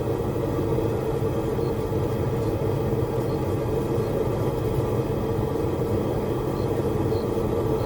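Blacksmith's forge running with a steady, even rumble.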